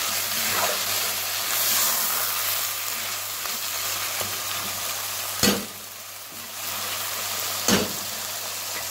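Minced mutton, chopped tomatoes and green chillies sizzling in a nonstick wok on high heat while being stirred, frying until the tomatoes break down. Two sharp knocks come in the second half, and the sizzle drops briefly after the first.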